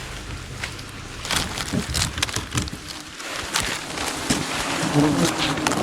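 Scattered knocks and rustling, then the buzzing of a swarm of wild honeybees sets in about five seconds in and grows louder.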